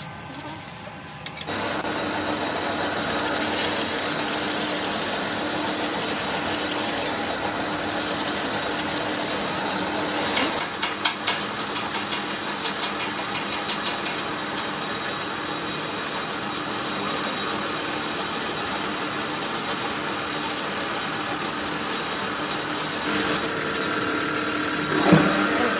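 A workshop power tool or machine running steadily. It starts up about a second and a half in, with a run of clicks and rattles from about ten to fourteen seconds in.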